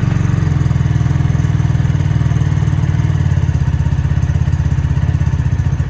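Venom X22R Max's fuel-injected 250cc motorcycle engine running steadily at idle, with an even, rapid pulse, just after being restarted. The bike is brand new and on its first starts, not yet staying running.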